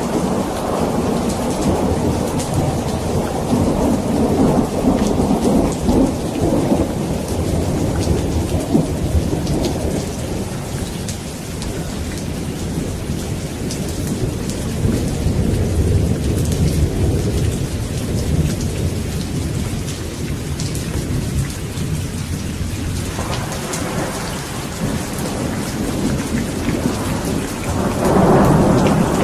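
Steady heavy rain with rolling thunder: low rumbles swell and fade several times, the loudest rising near the end.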